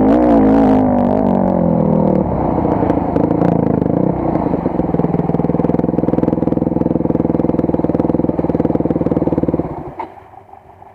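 Off-road motorcycle engine running, its revs dropping about two seconds in, then idling steadily before it stops abruptly near the end.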